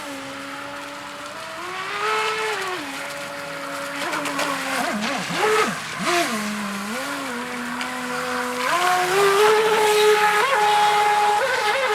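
Motor of a 3D-printed RC jet boat whining, its pitch stepping up and down as the throttle is worked, with a brief wavering dip about five seconds in and the highest, steadiest pitch near the end.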